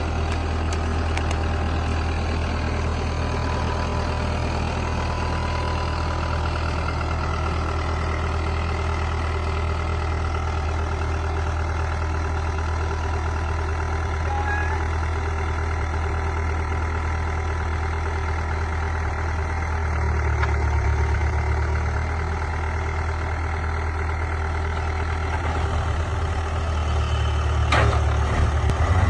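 Heavy vehicle engine running steadily at low revs, swelling briefly about twenty seconds in and again near the end.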